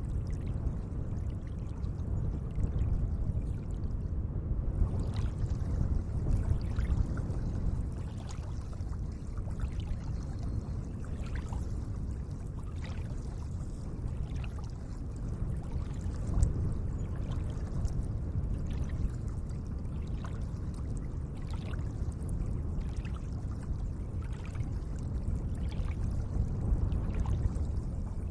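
Gentle lake water lapping and trickling, a steady wash with many small drips and splashes.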